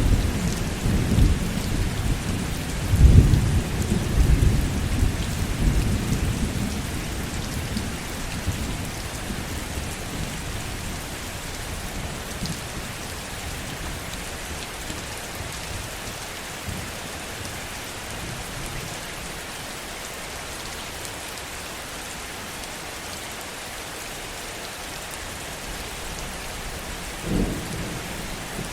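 Heavy rain falling steadily with a low thunder rumble that rolls on for the first several seconds and fades away, and a brief low rumble near the end.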